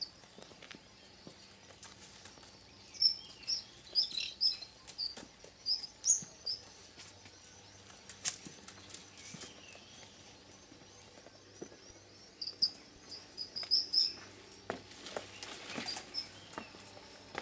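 Songbirds chirping in short, high-pitched notes, in two clusters with a lull between, and a few sharp clicks.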